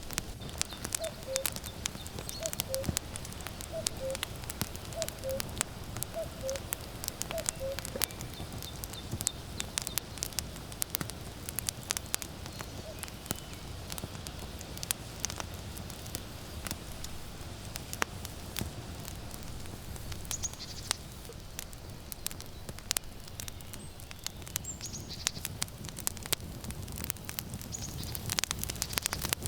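Firewood burning with steady crackling and sharp pops. Over it a cuckoo repeats its two-note falling 'cuckoo' call about once a second for the first several seconds, then calls once more later.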